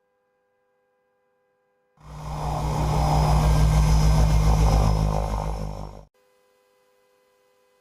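DHC-6 Twin Otter's turboprop engines and propellers running, with a fast, even pulsing beat. The sound cuts in about two seconds in and stops abruptly about four seconds later, with near silence before and after.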